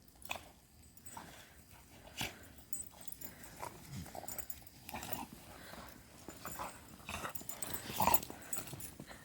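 Two dogs playing in snow, making a scatter of short, irregular sounds, loudest about eight seconds in.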